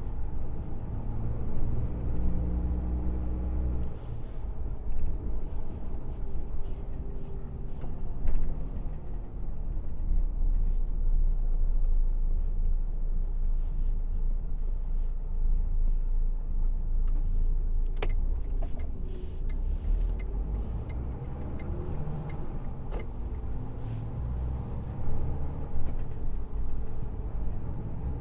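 Lorry engine and road rumble heard from inside the cab while driving slowly, the engine note rising and falling, with scattered clicks and rattles.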